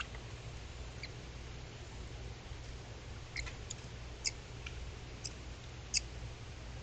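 Short, high chirps from a small wild animal, about half a dozen between three and six seconds in, over the steady hiss and low hum of an outdoor trail camera's microphone.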